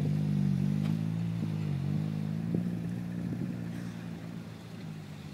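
Renault Clio's 1.5 dCi four-cylinder turbodiesel engine running at low revs as the car manoeuvres slowly, its note rising and dipping slightly. It grows fainter over the last couple of seconds.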